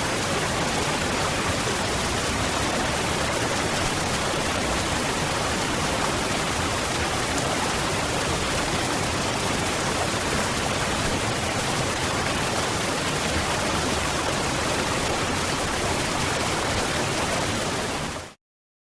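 Waterfall rushing in a steady, even roar of falling water. Near the end it fades out quickly to complete silence.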